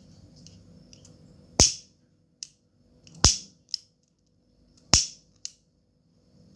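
Three sharp clicks at an even pace, each followed shortly by a fainter click, with crickets chirping steadily in the background before the clicks begin.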